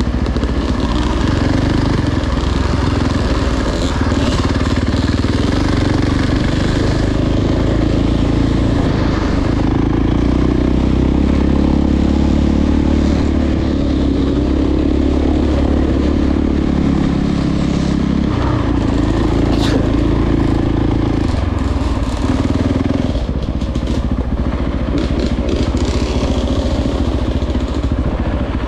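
Dirt bike engine running close by, its pitch rising and falling with the throttle.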